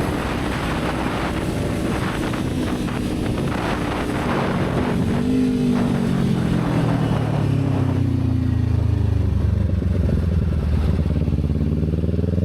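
Motorcycle engine running under way, its pitch falling through the middle as it slows and rising again near the end as it speeds back up.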